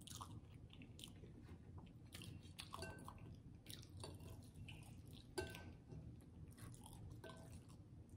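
Quiet chewing of turkey leg meat, with a few soft clicks and light clinks of a fork against the plate or sauce bowl.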